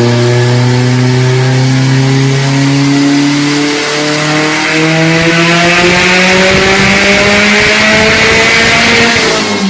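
Turbocharged car engine pulling hard under acceleration, its pitch climbing steadily through one long gear with a rising high whine over the top. Near the end the pitch drops suddenly at a gear change.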